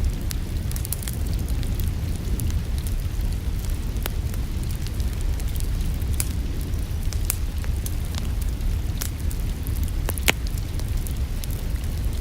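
Wood fire in a fireplace crackling, with scattered sharp pops and one louder snap about ten seconds in, over a steady low rumble.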